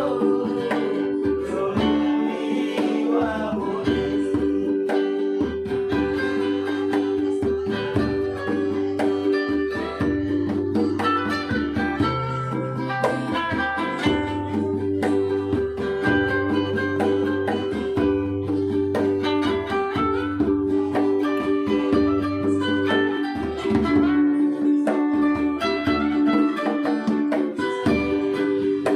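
Acoustic band music: strummed guitars and ukulele over a bass line that steps between notes every second or two.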